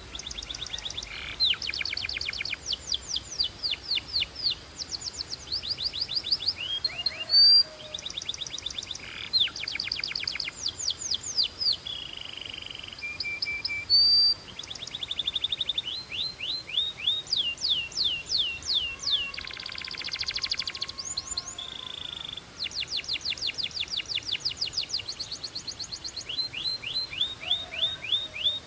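Belgian canary singing: fast trills of rapidly repeated down-sweeping notes, switching from one trilled phrase to the next, with a couple of short, louder sharp notes.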